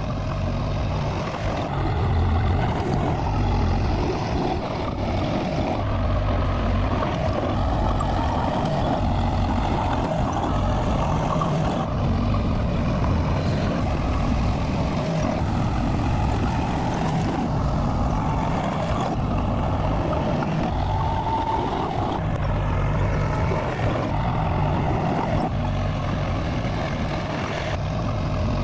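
Bulldozer's diesel engine running steadily, a continuous low rumble with no pauses.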